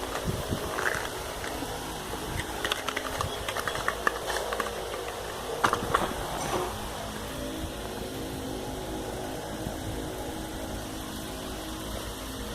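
A steady mechanical hum, with scattered light clicks and rustles in the first half.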